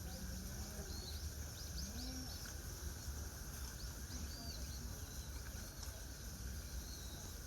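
Small birds giving short, high chirps here and there, a quick cluster about a second in and a few more later, over a steady low rumble of background noise.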